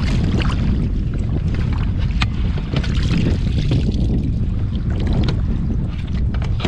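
Wind buffeting the microphone on a fishing kayak at sea: a loud, steady low rumble, with scattered short clicks and knocks.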